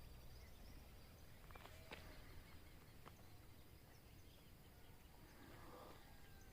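Near silence: faint outdoor ambience with a few faint, brief chirps and light ticks.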